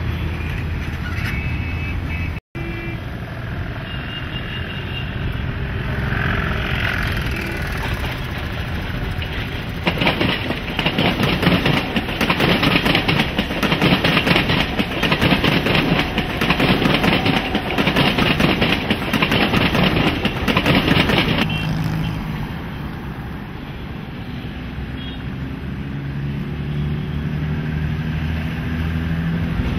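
Mumbai suburban electric local train passing close by, its wheels clattering rapidly over the rail joints, loud for about eleven seconds in the middle. Before and after it there is a quieter steady city rumble, with a few short horn toots in the first few seconds.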